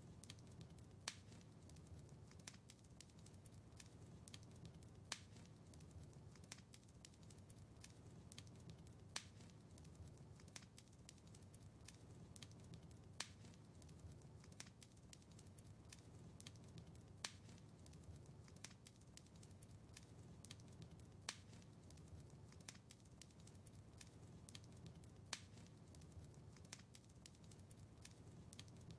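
Wood fire crackling in a fireplace: many small pops and ticks over a low, steady rumble of flames, with a sharper snap about every four seconds.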